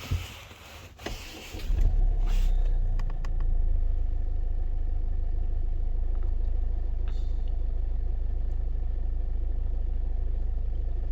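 Kia Carnival's turbo diesel engine starting about two seconds in, then idling steadily, with a few clicks around the start.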